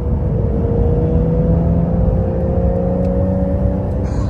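Porsche sports car's engine pulling at full throttle, its note climbing slowly and steadily in pitch over road and tyre rumble, then breaking off near the end.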